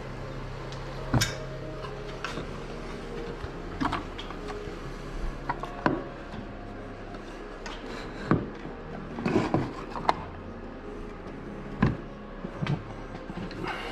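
Trolling motor and its bow mount being handled and folded: scattered knocks and clunks, some in quick clusters, over a steady low hum.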